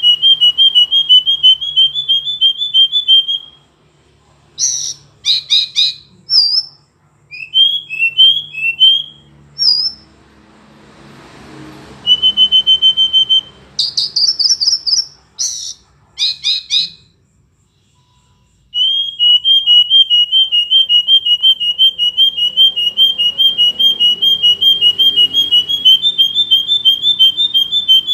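Verditer flycatcher singing: long runs of rapid, evenly repeated high whistled notes, broken by short higher phrases and pauses. A longer unbroken run starts about two-thirds of the way through.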